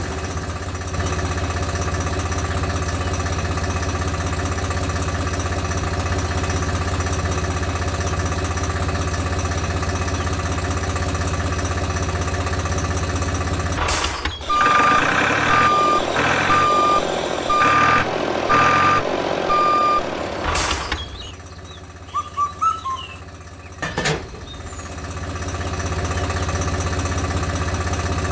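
A vehicle engine running steadily at a low, even drone. About halfway in it gives way to a reversing beeper sounding about once a second for several seconds. Near the end the engine drone comes back after a few clicks.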